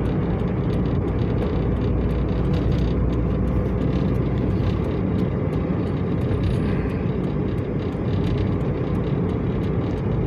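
Steady low rumble of a car driving, with faint rapid ticks throughout.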